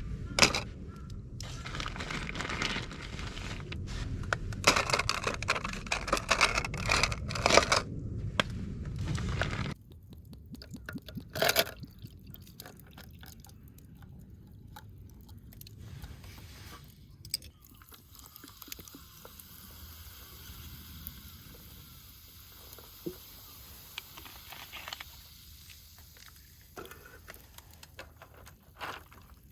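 Close scraping and crunching handling noises with sharp clicks for about ten seconds. Then a sudden drop to faint, scattered clicks and taps, with one louder tap a little later.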